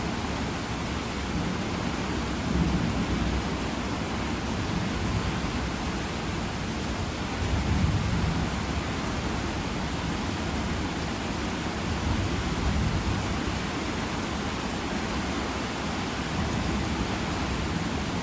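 Heavy rain falling steadily, with low rumbles of thunder that swell three times, the strongest about eight seconds in.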